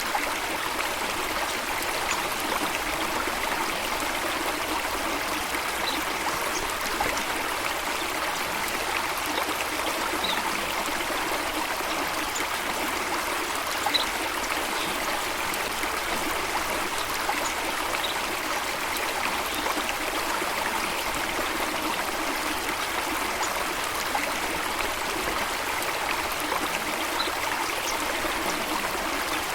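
Running water, a stream or waterfall flowing steadily and evenly, with a few brief faint high sounds over it.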